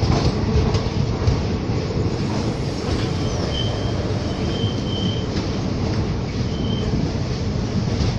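Indian Railways passenger train rolling out of a station, a steady rumble of wheels on the track. A few short, high squeaks come through around the middle.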